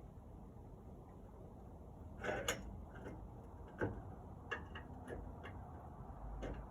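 A few light clicks and knocks at irregular intervals, from tools and small metal parts of the pellet grill's auger assembly being handled.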